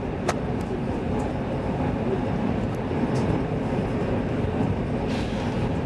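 Steady low running noise heard inside a moving X10 electric commuter train carriage, with a sharp click shortly after the start.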